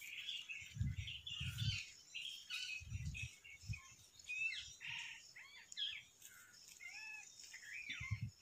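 Small birds chirping, with many short rising and falling whistled notes, and a few brief low rumbles.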